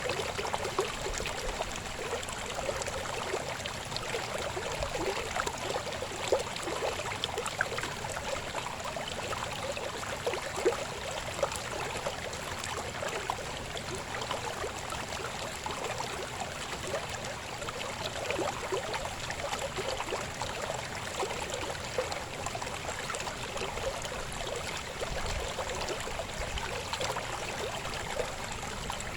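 Shallow river babbling over stones: a steady rush of water, dense with small gurgles and splashes.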